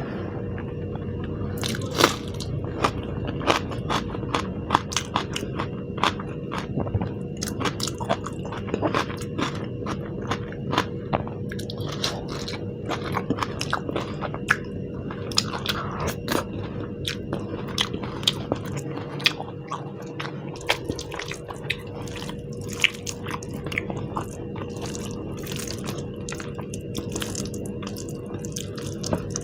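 Close-miked eating by hand: biting and chewing, with many short wet smacks and crunches of food in the mouth over a steady low background hum.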